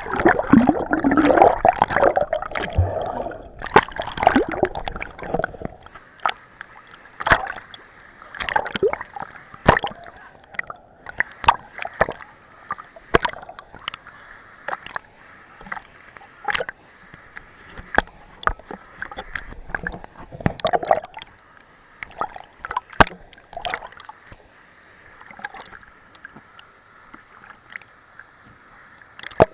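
Irregular splashing and sloshing of water, with a denser, louder stretch of splashes in the first few seconds, then scattered single splashes.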